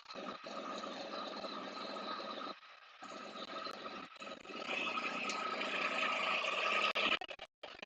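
Can-Am Spyder RT's Rotax 1330 three-cylinder engine running while the trike is driven up onto ramps. It dips briefly about a third of the way in, gets louder for the next few seconds, then cuts off sharply shortly before the end.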